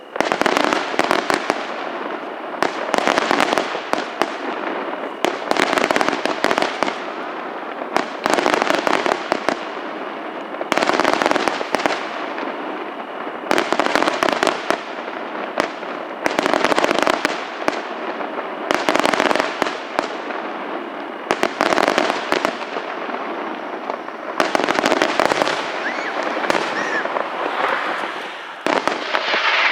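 Fireworks display going off: dense, rapid bangs and crackling bursts that swell in waves about every two seconds.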